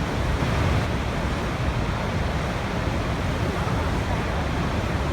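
Waterfall: a continuous, steady rush of falling water, heaviest in the low end.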